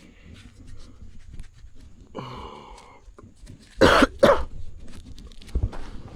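A person coughing twice in quick succession, with a shorter pitched sound a couple of seconds before.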